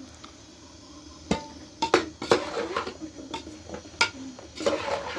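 Dishes and utensils clinking and knocking, with a handful of separate sharp strikes spread out rather than in a steady rhythm.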